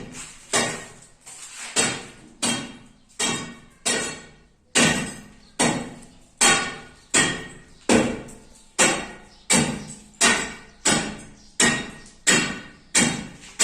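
A metal tool striking and breaking up an old concrete floor in steady blows, about one and a half a second, each with a short metallic ring.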